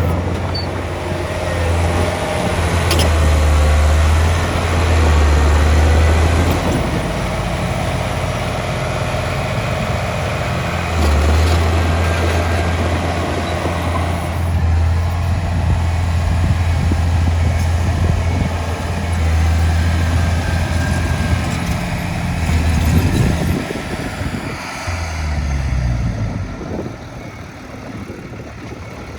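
Diesel engine of heavy earthmoving machinery running, a deep hum that comes and goes in long stretches as the load changes, under a broad rumble. It gets quieter near the end.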